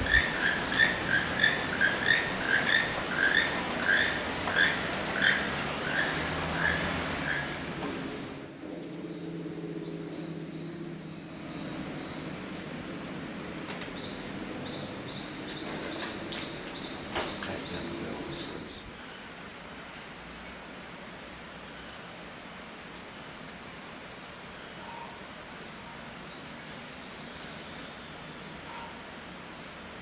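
Birds calling. One bird repeats a sharp call about twice a second for the first eight seconds. After a sudden change the sound drops to fainter, scattered high chirps over a steady insect buzz.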